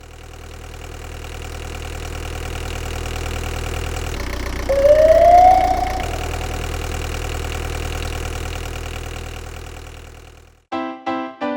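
Fire truck engine idling steadily with an even pulse, fading in and fading out again. About five seconds in comes a short rising siren whoop, the loudest moment. Piano-like music starts near the end.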